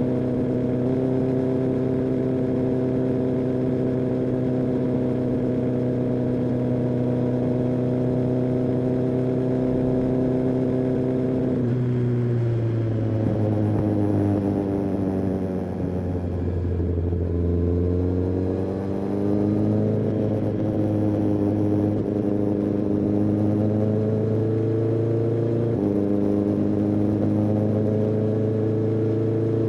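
Kawasaki ZX-10R's inline-four engine and exhaust on the move: a steady cruise, then about twelve seconds in the engine note drops away as the bike slows, bottoms out, and climbs again under throttle, with a sudden step up in pitch near the end.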